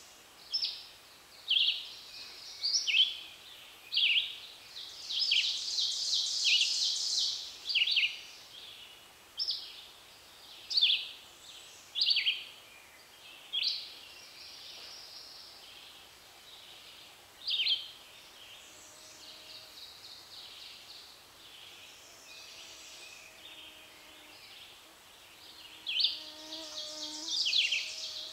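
Several songbirds singing in spring woodland: short sharp downslurred notes repeat about every second or so, with longer buzzy trills now and then. The singing thins out past the middle and picks up again near the end.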